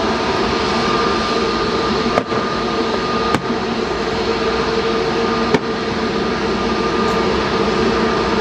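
Jet airliner engines running steadily, a constant roar with a steady whine over it. Three short sharp clicks cut in, about two, three and a half and five and a half seconds in.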